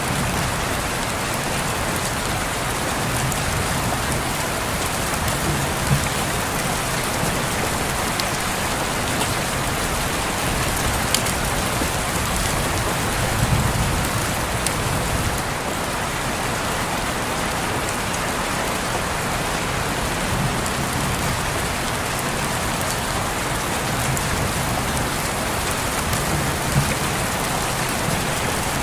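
Steady rain falling and pattering on a window, with scattered sharper drop ticks and a few soft low swells.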